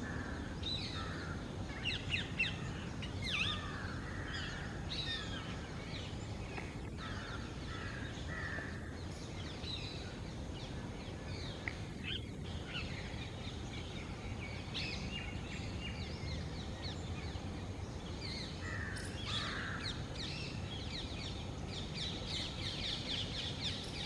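Many short bird calls and chirps, scattered throughout and thickest near the end, over steady low background noise.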